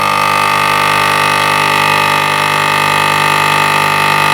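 Nespresso capsule machine's pump buzzing steadily at one constant pitch while brewing a small cup.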